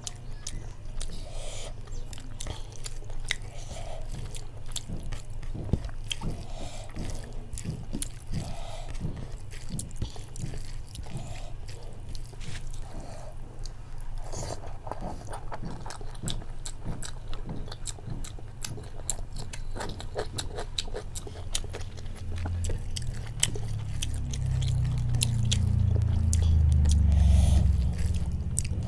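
Close-up chewing of a mouthful of rice mixed with dal, eaten by hand: wet smacking with many small mouth clicks over a steady low hum. A low rumble builds over the last several seconds.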